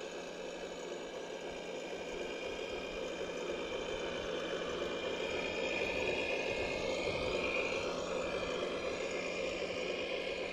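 Small electric motors of a radio-controlled model machine whirring and whining with a steady hum underneath. The whine grows louder and shifts in pitch around the middle, then eases off.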